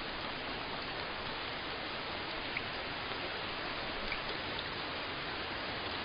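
Steady rain falling, an even hiss with a few faint drop ticks on a surface.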